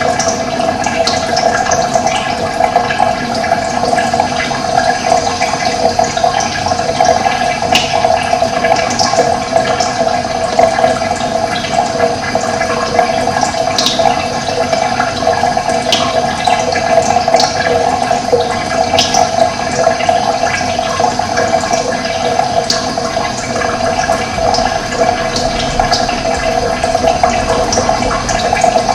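Steady rush of running water, with brief high bird chirps here and there over it.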